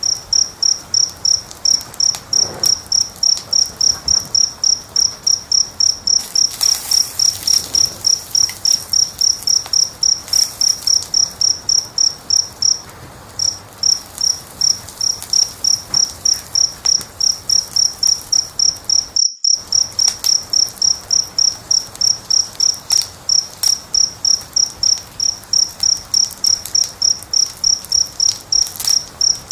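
Cricket chirping steadily at one high pitch, about three chirps a second, with a short pause near the middle. Faint crackling of a wood fire runs underneath.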